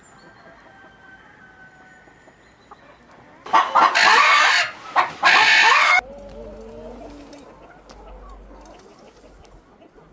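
Chickens: one gives a loud call in two parts, starting about three and a half seconds in, then softer clucking follows.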